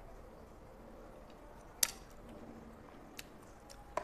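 Soft chewing of a mouthful of spaghetti, with a sharp clink of a metal fork on a ceramic plate a little under two seconds in, a faint tick later, and another clink at the end as the fork is laid down on the plate.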